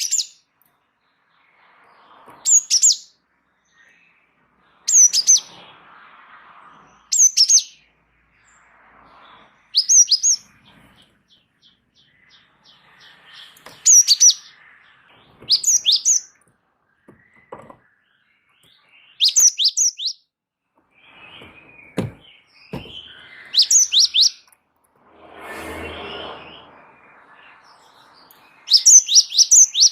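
Cinereous tit (gelatik batu) singing: short phrases of two to four sharp, high, down-slurred notes, repeated about every two seconds. A brief rustling noise comes in shortly before the end.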